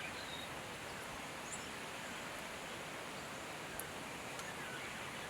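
Quiet outdoor garden ambience: a steady background hiss with a few faint, short bird chirps and a faint click about four seconds in.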